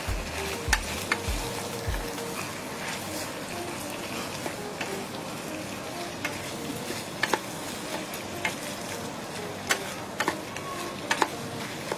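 Vegetables sizzling as they fry in a pan and are stirred, with a steady sizzle and scattered sharp clicks of the spoon against the pan, more of them near the end. A few dull low knocks come in the first two seconds.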